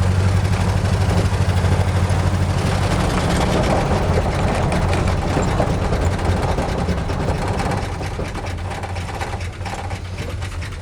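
1976 Ford F-250's 390 FE V8, fitted with new headers and exhaust, running steadily as the truck is driven slowly along a driveway. It gets gradually quieter near the end.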